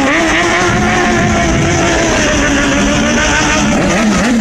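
Motorcycle engine revved and held at high revs, its pitch sagging slightly, then revs rising and falling near the end.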